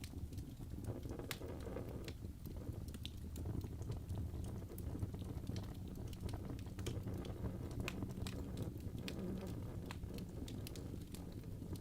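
Wood fire burning in a fireplace: a steady low rush of flames with frequent sharp crackles and pops from the logs.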